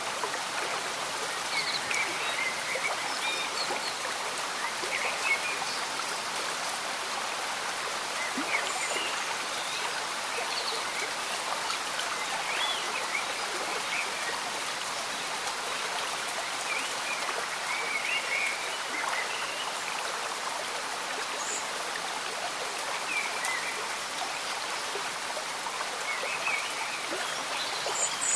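Slow-moving stream bubbling and gurgling steadily under gentle rain, with short bubbling blips scattered throughout.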